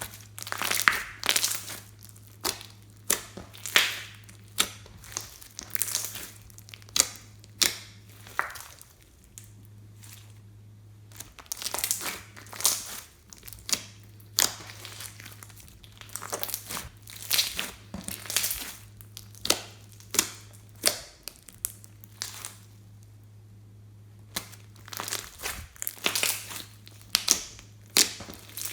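Hands squeezing and kneading slime: quick runs of sticky crackling pops, several a second, with two short pauses. A faint steady low hum runs underneath.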